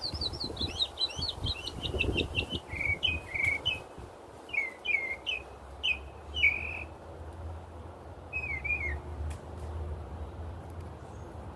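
A small songbird singing: a fast run of high chirps that steps down in pitch over the first couple of seconds, then slower slurred notes, and a last short phrase about nine seconds in.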